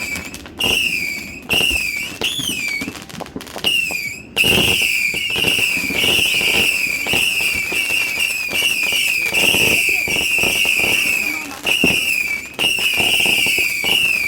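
Whistling fireworks shrieking over and over, each shrill whistle dipping and wavering in pitch, with sharp cracks among them. The whistles come singly at first, then run almost continuously from about four seconds in.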